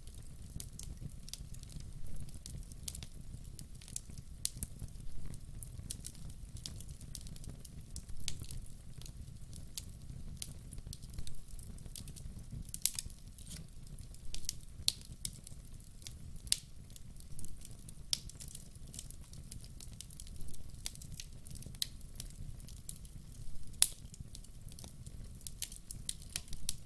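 Burning logs crackling, with sharp pops scattered irregularly over a steady low rumble. Louder pops come about halfway through and near the end.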